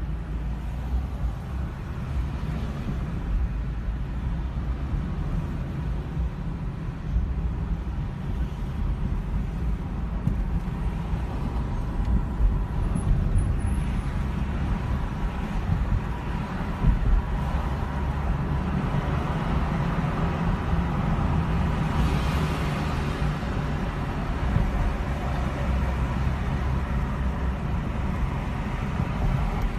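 Road traffic noise: a steady low rumble of motor vehicles with tyre noise, growing louder for a few seconds about two thirds of the way through.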